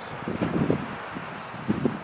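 Wind buffeting the microphone, a steady rush with two louder gusts about half a second in and near the end.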